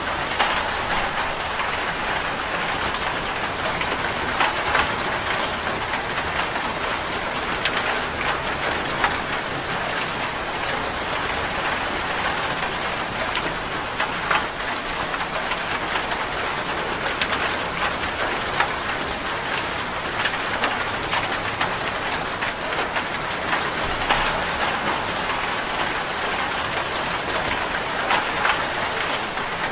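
Steady rain, an even dense hiss with scattered sharper ticks throughout.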